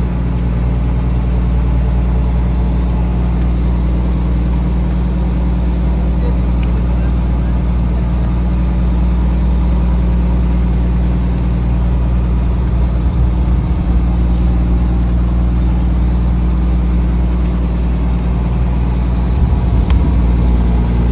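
A fishing trawler's diesel engine running steadily, a loud, even low drone heard on board.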